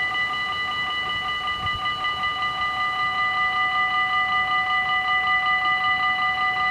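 Dutch level-crossing warning bells ringing: several bells striking rapidly and steadily together.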